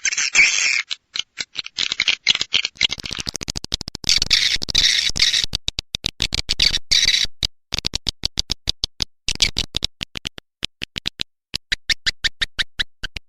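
Swiftlet lure-call recording: a fast train of sharp clicks with bursts of high chirping twitter, the kind of call played to attract swiftlets to nest.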